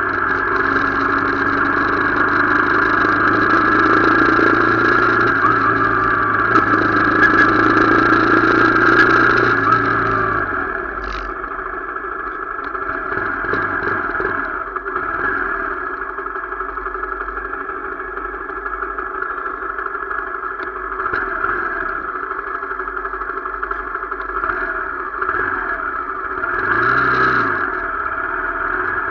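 Motorcycle engine running while riding. Its low engine note drops away about ten seconds in and the sound grows quieter.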